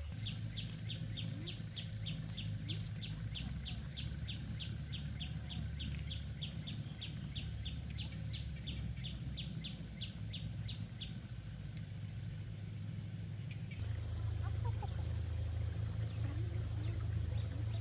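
A bird calling with a rapid run of short, high chirps, about three a second, that stops after about eleven seconds. A steady low rumble lies underneath, and it changes and grows a little louder near the end.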